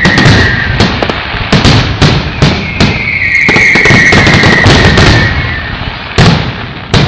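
Fireworks display: a rapid string of sharp bangs and crackles, one after another. A long high whistle falls slightly in pitch from about two and a half to four and a half seconds in.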